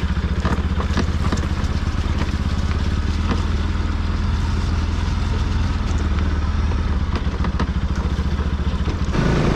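Bajaj Pulsar NS 200 motorcycle's single-cylinder engine running steadily under way, with scattered short knocks and rattles.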